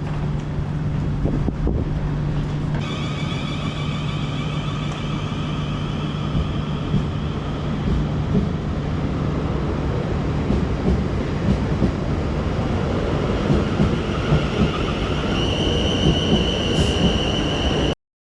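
South Western Railway electric train running on the rails: a steady rumble of wheels and track with a high-pitched whine that appears about three seconds in and changes to a higher whine near the end. It cuts off abruptly at the very end.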